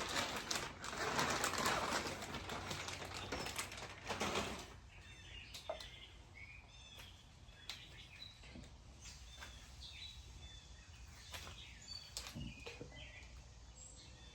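A plastic bag crinkling and rustling for about four and a half seconds as new shift cables are unpacked. Then small birds chirp repeatedly, with a few light clicks of handling.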